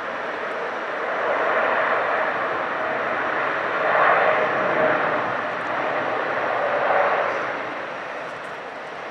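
Jet airliner engines passing: a steady rushing roar with a faint whine, building about a second in, loudest around the middle, and easing off near the end.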